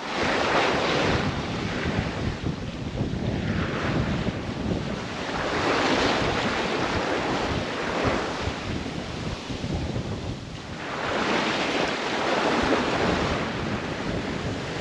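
Sea waves washing and wind buffeting the microphone, a steady rush of noise that swells and eases three times.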